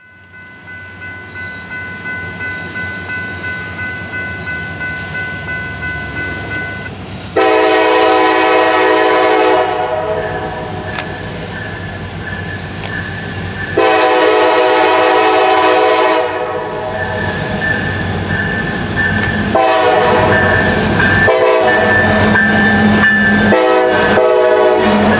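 An ALCO RS-11 diesel locomotive's air horn blowing two long blasts, then a series of shorter blasts, as the train approaches. Before the horn, a rhythmic sound grows louder. Under the later blasts, the locomotive's diesel engine rumbles louder.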